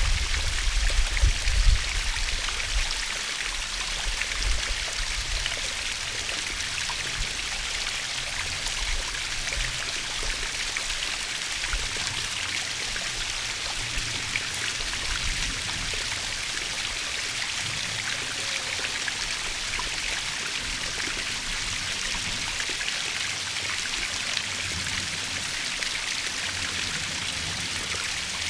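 Natural waterfall: water falling and splashing in a steady, even rush, with a low rumble in the first couple of seconds.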